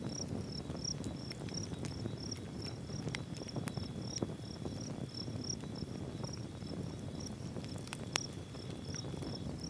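Insects chirping: a high chirp repeating about three times a second over a steady high trill, against a low, even rushing background with scattered light clicks and one sharper click about eight seconds in.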